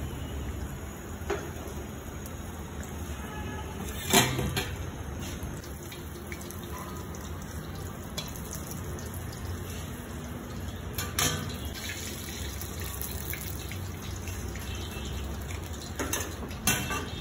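Chicken patty sizzling as it fries in hot oil in a wok, with a few sharp clacks of the metal spatula and steel plate against the pan.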